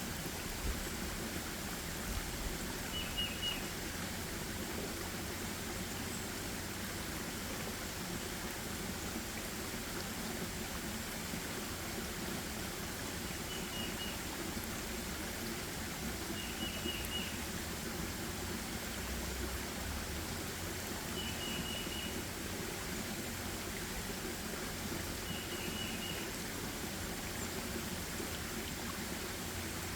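Forest ambience: a steady rushing background noise, with a small bird giving a short, high chirping call five times, a few seconds apart.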